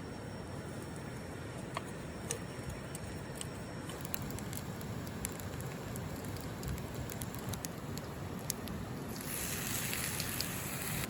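Wood fire crackling, with scattered sharp pops over a steady low rush. About nine seconds in, a brighter hiss joins.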